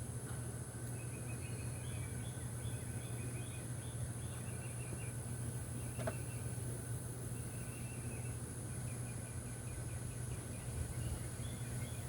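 Honeybees buzzing around an opened hive in a steady low hum, with small birds chirping in short repeated trills. A single sharp click comes about six seconds in.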